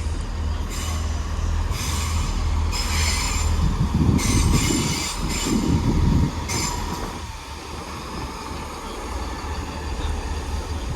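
Class 166 diesel multiple unit running into the platform, its deep diesel rumble underneath high-pitched wheel squeals that come in several bursts over the first seven seconds, loudest around the middle.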